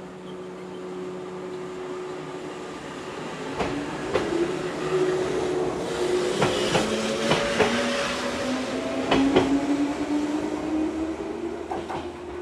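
A 115-series electric multiple-unit train pulling away. Its motor hum rises steadily in pitch as it gathers speed, and the wheels clack over rail joints several times from a few seconds in as it gets louder.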